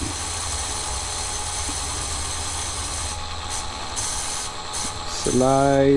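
Steady rubbing of a micro-mesh abrasive pad held lightly against a spinning diecast toy car wheel, with a small motor humming underneath.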